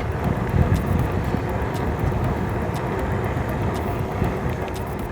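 Riding noise from a fat-tyre electric bike at speed: wind buffeting the microphone over the rumble of the wide tyres, with a faint steady hum.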